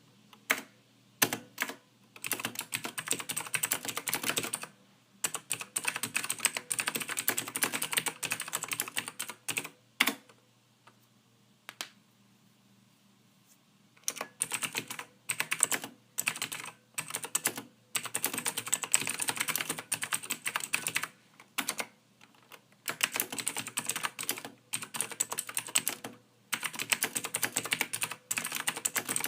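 Typing on a computer keyboard: soft key clicks in quick runs of a few seconds each, broken by short gaps, with a pause of about three seconds near the middle.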